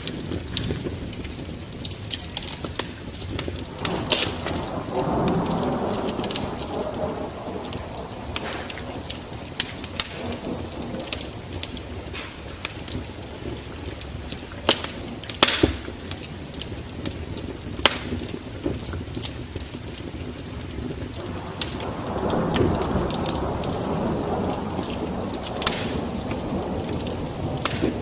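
Wood fire burning in a fireplace, crackling with many sharp pops and snaps. Twice it swells into a louder, lower rushing for a few seconds.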